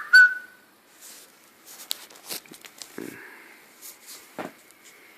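A short whistled note that rises and stops about half a second in, followed by faint rustling, light clicks and two soft knocks.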